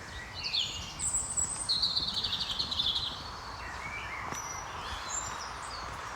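Songbirds singing: a run of high chirps, with a fast trilled phrase about two seconds in and a few further notes later, over steady outdoor background noise.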